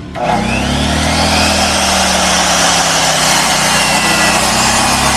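A motor-driven power tool starts up suddenly, its whine rising in pitch over the first second. It then runs steadily and loudly with a low drone and a bright hiss.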